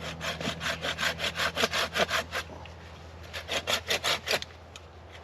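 Silky folding pull saw cutting through wood in quick back-and-forth rasping strokes, about five a second. There is a short pause about halfway through, then a second run of strokes.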